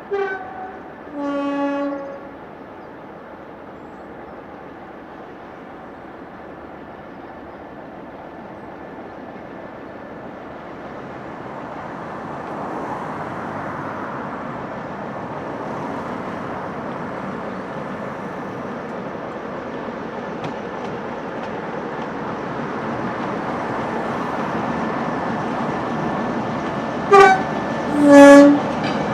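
A locomotive gives two single-pitch blasts, a short one then a longer one, right at the start and again near the end. In between, the rumble of a train running along the line builds steadily as it draws closer.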